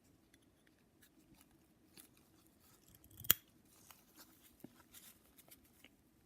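Small metal engine parts being handled: light scattered clicks and taps, with one sharp click about three seconds in.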